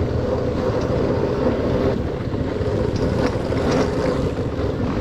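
Dirt bike engine running steadily under way on a trail, with wind noise on the microphone.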